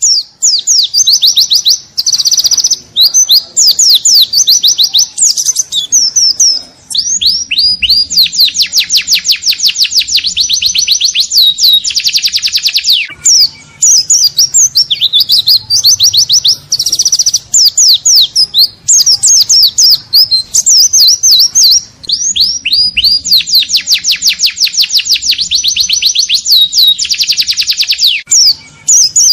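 Pleci (white-eye) singing in the loud, unbroken 'ngalas' style: long runs of very rapid, high-pitched sweeping chirps, broken only by a few short pauses.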